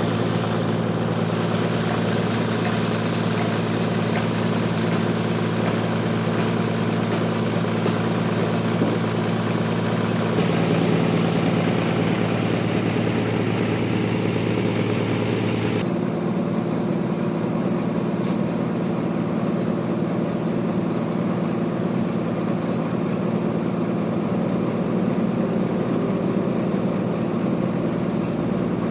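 Sawmill machinery running steadily with a low, even engine-like hum. The sound changes abruptly about ten seconds in and again around sixteen seconds, where a higher hiss drops away.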